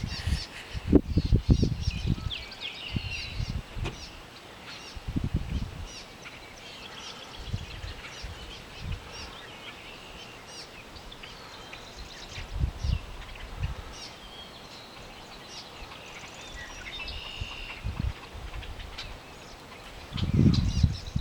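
Several small birds singing and chirping in quick, overlapping phrases. Irregular low rumbling bumps on the microphone come and go, loudest in the first couple of seconds.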